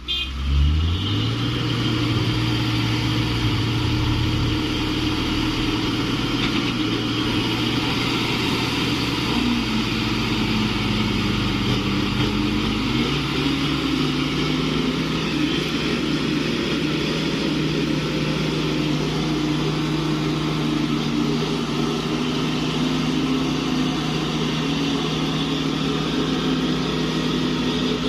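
Diesel truck engine running steadily under load. Its pitch dips about ten seconds in and shifts again about thirteen seconds in.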